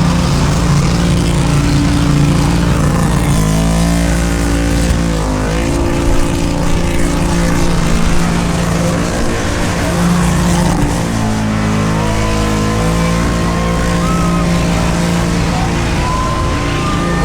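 V8 engine held at high revs, as in a burnout, with the pitch dipping and climbing back twice, over a loud hiss of noise.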